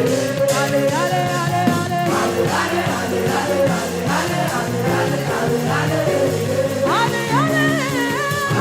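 Upbeat gospel praise music with a steady beat on drums and bass, and singing that comes in strongly with rising, bending lines near the end.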